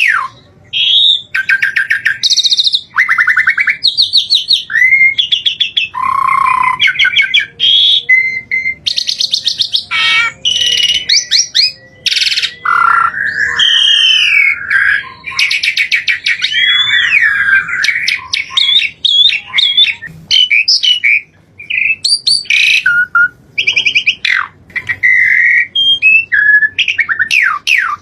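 A songbird singing a loud, continuous, varied song of quick trills, whistles and chirps, with runs of rapid downward-sweeping notes at the start and end.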